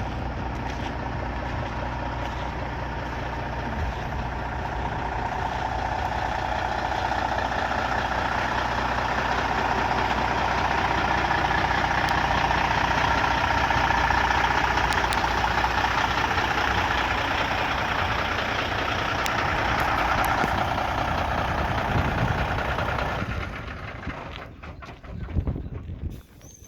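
Diesel engine of a Freightliner Coronado truck tractor idling steadily, slowly growing louder over the first half, then cutting off abruptly near the end, leaving wind noise on the microphone.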